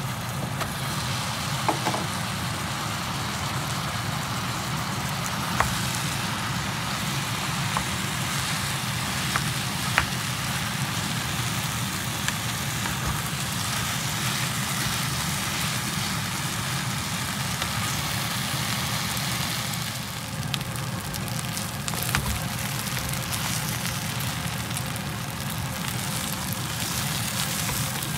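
Kimchi and rice frying in a nonstick pan, a steady sizzle with occasional sharp knocks of a wooden spatula against the pan, over a steady low hum.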